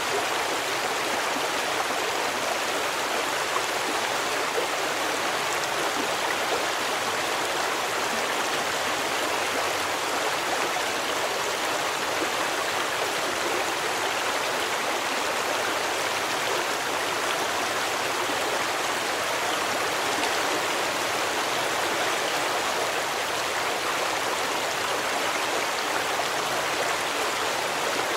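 Steady rushing of a forest stream, water running over rocks in an even, unbroken wash.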